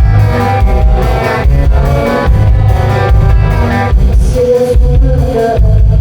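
A live rock band playing loud: electric guitar over a heavy, pulsing bass in a steady rhythm.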